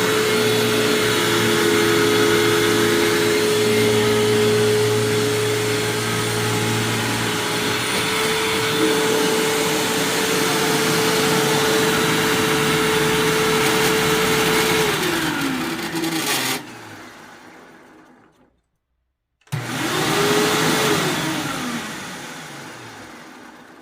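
1999 Hoover WindTunnel self-propelled upright vacuum running in its upright position with a weird grinding noise, which the owner cannot explain and which stops when the vacuum is lifted and set down. Its motor is switched off and winds down with a falling pitch, then is switched on again briefly and winds down once more.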